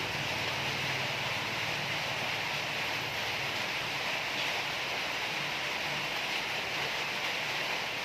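Steady background hiss with no distinct knocks, clicks or tool sounds.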